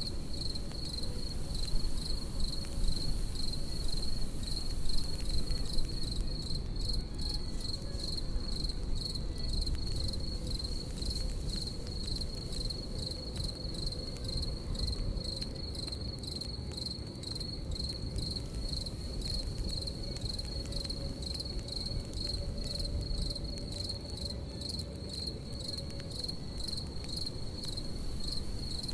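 Crickets chirping in a steady, fast pulsing trill over a campfire crackling with frequent sharp pops and a low steady rumble. A few louder pops come in the first several seconds.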